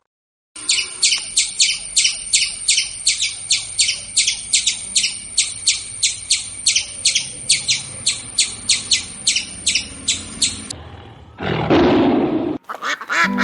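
A small bird chirping in a fast, very even series, about three high chirps a second. Near the end comes one brief, loud, harsh sound.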